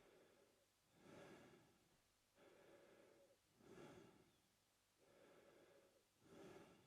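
Faint male mouth breathing, slow and even. A louder breath comes about every two and a half seconds (about a second in, near four seconds and near the end), alternating with softer breaths in between.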